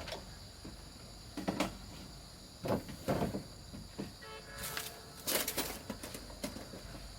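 Irregular knocks and scrapes of wooden pieces being handled and fitted, with a short creak about four seconds in. Insects chirp steadily throughout.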